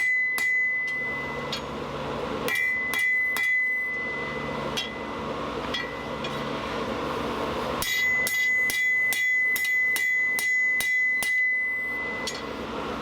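Blacksmith's hand hammer striking a bar of hot steel on an anvil in three runs of blows, about three a second, the anvil ringing with a high steady tone through each run. The bar is being drawn out thinner.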